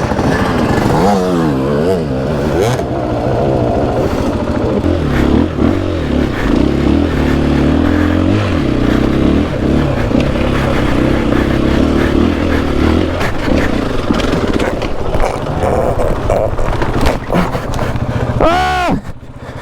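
Dirt bike engine revving hard under load on a hill climb, its pitch rising and falling with the throttle. A sharp rev up and back down comes near the end.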